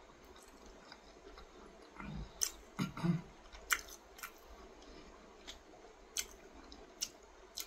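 A person chewing and biting pieces of chicken close to the microphone, with sharp, wet lip-smacking clicks at irregular intervals and a brief low hum about three seconds in.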